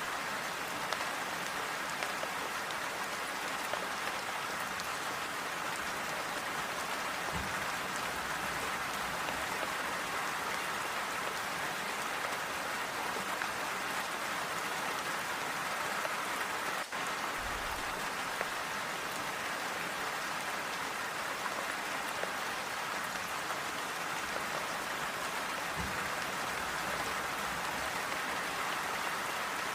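Steady rain falling on a clay tile roof: an even, continuous patter with no thunder, and a few short, faint low rumbles.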